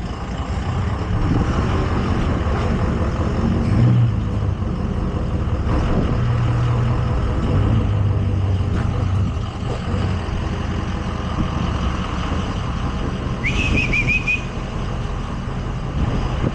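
Tow truck engine running steadily while the crew hooks a car onto the lift, with a short high-pitched squeal a little before the end.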